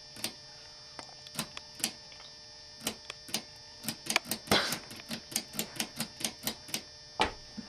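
A series of sharp taps or clicks, scattered at first, then a quick run of about four or five a second that stops a little before the end, over a faint steady high-pitched hum.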